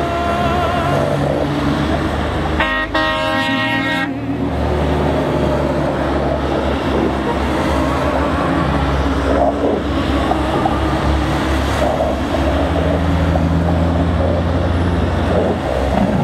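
A procession of tow trucks passing with engines running and horns honking; one loud horn blast about three seconds in lasts about a second and a half.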